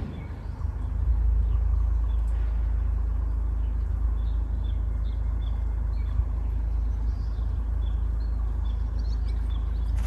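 A bird giving short, high chirps about twice a second over a loud, steady low rumble.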